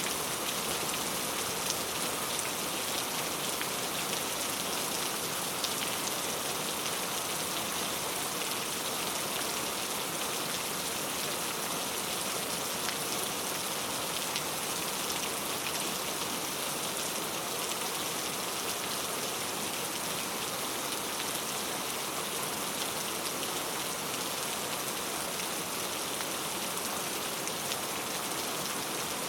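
Heavy rain falling steadily on mango tree leaves, a dense even hiss of drops with faint scattered taps.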